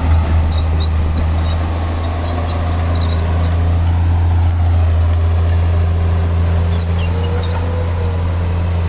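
Heavy construction machine's diesel engine running steadily, a loud low drone, with a faint whine rising and falling near the end.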